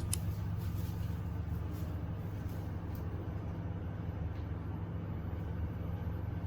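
Steady low mechanical hum without change.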